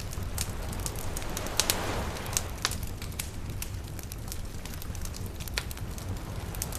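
Wood campfire crackling with scattered sharp pops over a steady low rumble, with a soft wash of surf swelling and fading about two seconds in.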